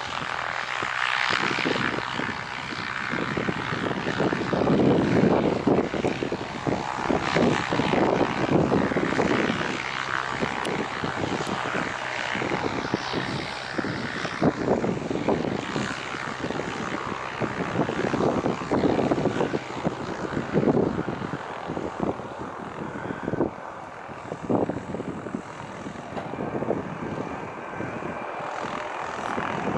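Jet airliner engines running, heard through heavy, gusting wind buffeting the microphone.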